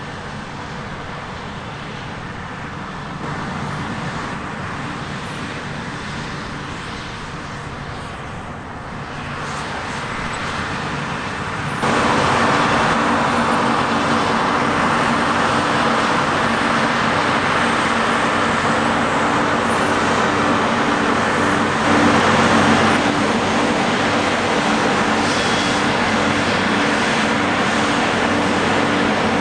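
Heavy diesel farm machinery running steadily. It becomes suddenly louder about twelve seconds in and stays loud.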